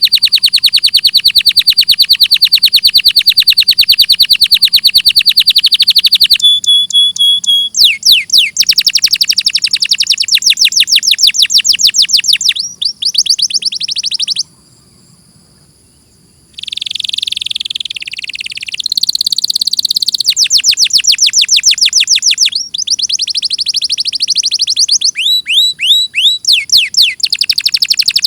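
Domestic canary singing: long, fast trills of rapidly repeated high notes, with runs of quick falling sweeps. The song breaks off for about two seconds around the middle.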